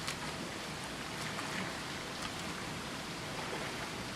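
Steady rushing water noise with a few light splashes of swimming pool water.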